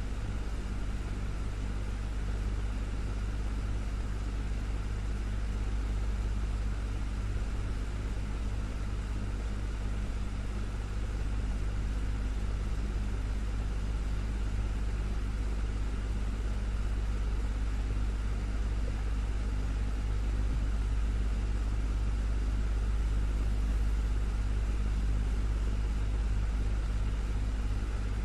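Desktop electric fan running steadily: a low motor hum under an even rush of moving air, with no change in speed.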